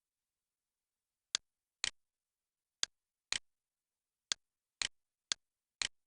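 Eight short, sharp clicks, mostly in pairs about half a second apart, starting about a second in, with dead silence between them.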